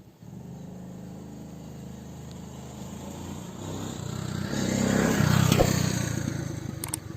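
Diesel tractor engine running under load, building up louder and harder to a peak about five seconds in, then easing off. A few sharp clicks near the end.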